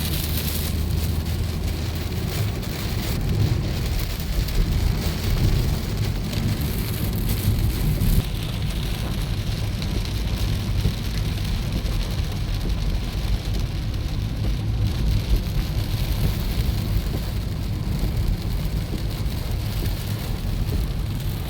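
Steady rain hiss over the low rumble of a moving vehicle on the road.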